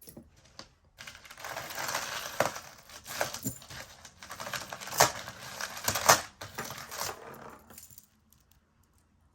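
Pieces of metal costume jewelry, chains and necklaces, clinking and rattling together as they are handled, with a few sharp clinks about two and a half, five and six seconds in. The rattling stops about eight seconds in.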